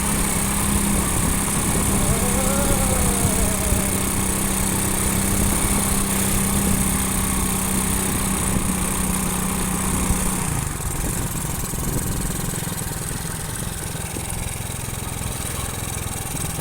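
Motorcycle engine running steadily under way, with road and wind noise. About ten seconds in, the engine's steady hum drops away and the sound gets a little quieter.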